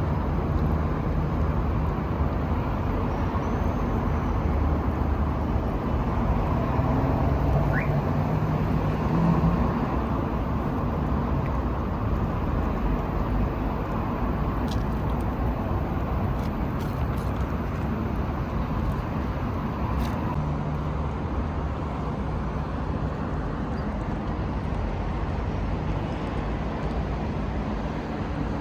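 Steady road traffic noise, with the low hum of passing car engines swelling and fading.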